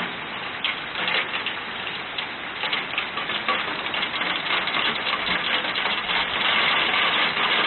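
Hailstones pelting down: a dense clatter of many small hard impacts over a steady rushing hiss, growing heavier and louder about six seconds in.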